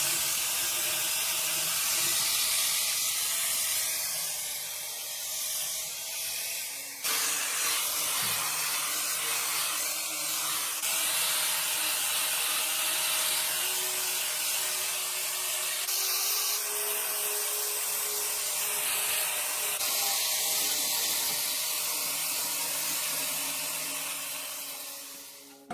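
A steady spraying hiss with a faint steady hum beneath it. It changes abruptly a few times and fades out at the end.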